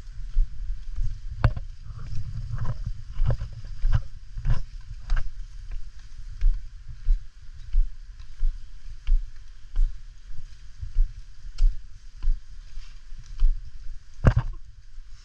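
Footsteps of a person hiking on a trail, a regular thud about every half second, over a steady low rumble, with a few sharper knocks, the loudest about a second and a half in and again near the end.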